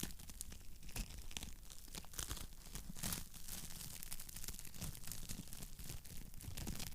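Wood fire crackling in a fireplace: a continuous run of irregular snaps and pops over a low rumble, with slightly sharper pops about a second and three seconds in.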